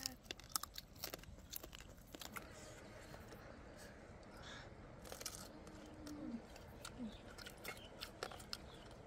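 Mouth-eating sounds: irregular crisp crunches and chewing of crunchy food, fried pork and a raw green vegetable, close to the microphone, with a couple of brief low hums from an eater.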